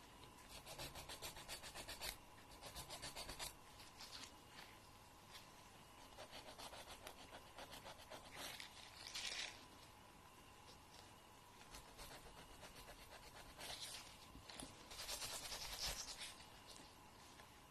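Fingernail being filed: a soft rasping in runs of quick strokes with short pauses between them, over a faint steady tone.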